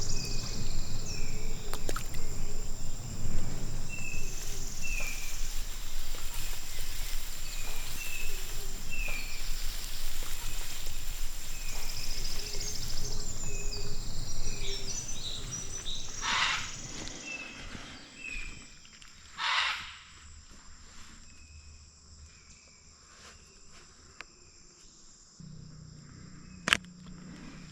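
Rainforest ambience: a short call repeats about once a second, with a steady high insect hiss that fades about halfway through. Later come three loud, harsh squawks, the loudest sounds here, typical of a scarlet macaw.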